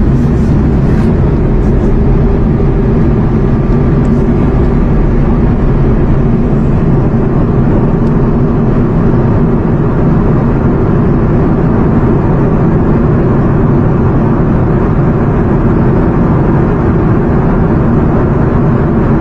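Loud, steady aircraft engine noise: a dense rushing sound with a low droning hum of several steady tones, holding the same level.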